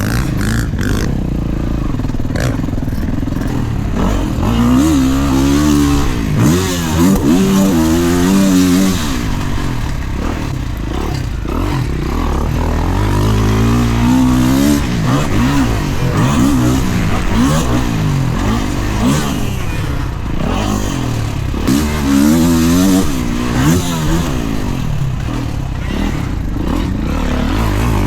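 Dirt bike engine revving hard as it is ridden around a motocross track, its pitch climbing and dropping again and again as the throttle opens and closes.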